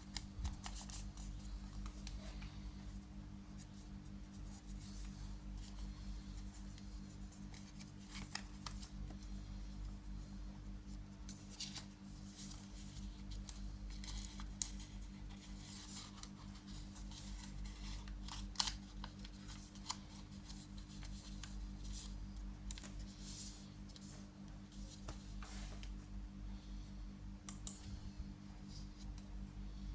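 A square of origami paper being folded and creased by hand: intermittent light rustles and crinkles, with a sharper crackle about two-thirds of the way through. A steady low electrical hum runs underneath.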